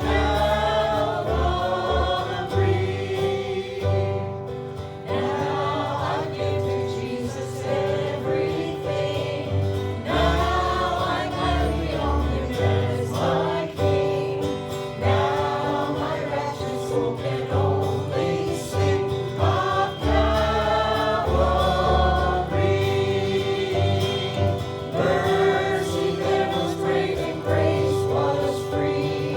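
Gospel song sung by a group of voices with instrumental accompaniment: a long-held chord tone and a bass line under the singing.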